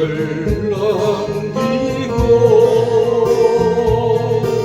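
A voice singing a slow Korean folk song, holding long notes over a strummed acoustic guitar.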